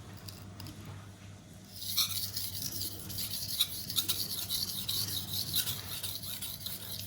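Stainless chef knife being ground on a coarse Naniwa 320 whetstone: gritty, high-pitched scraping strokes begin about two seconds in and repeat back and forth, with the blade working to raise a burr on its second side.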